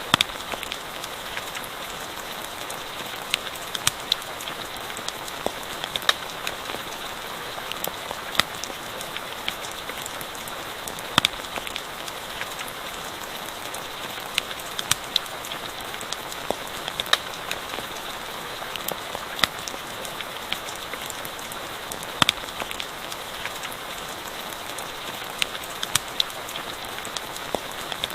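Steady rain hissing, with a campfire's sharp crackles and pops scattered irregularly through it.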